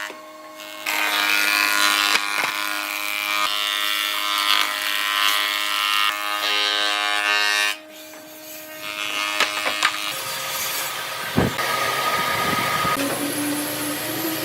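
Electric power tool motor running with a steady whine, cutting or working wood; it stops briefly after about eight seconds, then runs again with a noisier sound and a single sharp knock.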